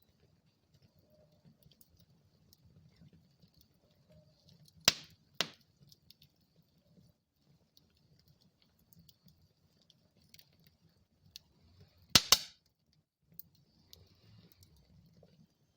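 Wood fire burning in a fireplace, crackling softly with small ticks, and sharp pops of the burning wood: two about five seconds in and a louder cluster a little after twelve seconds.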